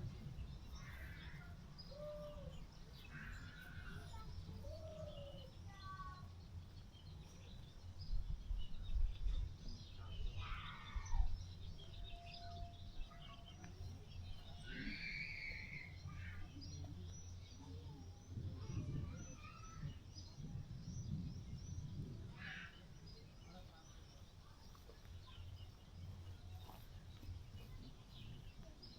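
Scattered bird calls and chirps over a steady low rumble of wind on the microphone, with stronger low gusts about eight to eleven seconds in.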